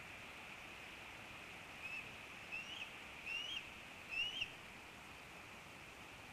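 A bird gives four short chirps that rise in pitch, each louder than the last, starting about two seconds in, over a steady hiss.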